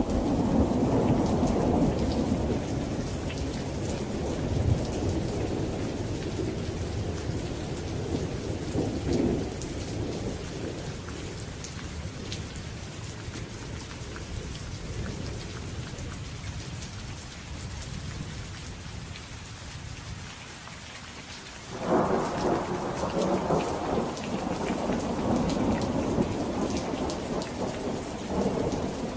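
Thunderstorm with steady rain pattering. A long roll of thunder slowly dies away, and after about twenty seconds a new clap of thunder breaks in suddenly and rumbles on.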